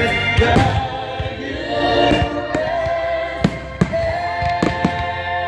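Aerial fireworks bursting overhead: a string of sharp bangs, the strongest about three and a half seconds in. Music with choral singing plays throughout.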